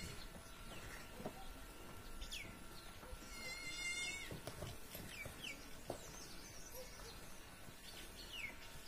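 Birds calling: short rising chirps now and then, and one louder, pulsing call lasting about a second near the middle. A few faint knocks.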